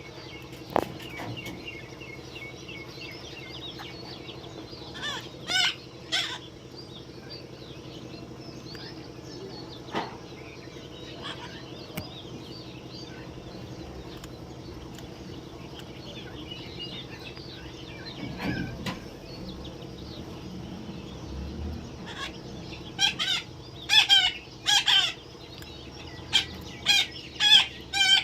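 Parrots squawking in short, harsh calls, a few about five to six seconds in and a quick run of them near the end, over many faint chirps in the background.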